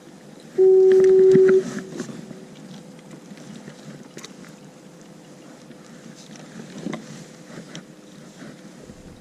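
A foghorn sounding one loud, steady, single-pitched blast of about a second, a little after the start, over low water noise and small knocks on a kayak.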